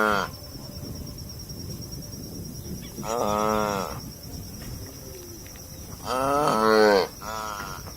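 Cattle mooing: a few separate calls, each under a second long, rising and then falling in pitch, a few seconds apart, with a shorter call near the end.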